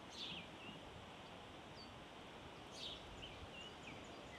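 Faint birds chirping a few times, short scattered calls over quiet outdoor background noise.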